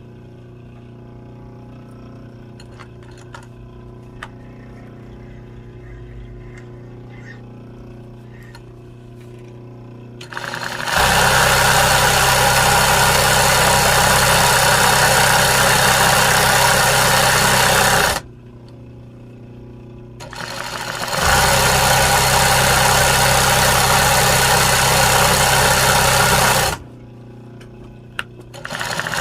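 Embroidery sewing machine stitching in runs: a low motor hum with light clicks, then the machine sews at full speed for about seven seconds, stops, sews again for about six seconds, and starts up once more near the end.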